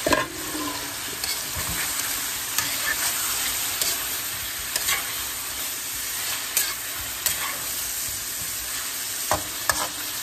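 Chicken wings with garlic and onion sizzling in oil in a metal wok as they are stirred and turned. A metal spoon scrapes and clinks against the pan now and then, with a sharper clank at the very start.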